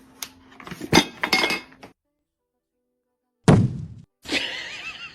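Clinks and knocks of hard objects, the sharpest about a second in, then a single loud thud about three and a half seconds in.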